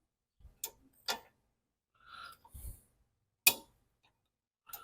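A 12 mm open-end wrench clicking and clinking on metal as a nut is tightened: a few separate sharp clicks with faint scuffing between them, the loudest about three and a half seconds in.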